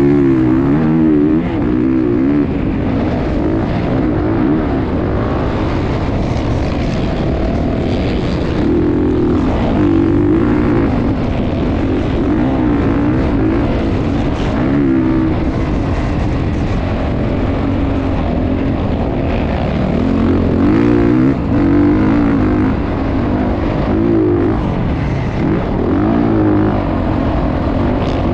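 Motocross bike engines running and revving, the pitch climbing and falling over and over as the throttle opens and closes.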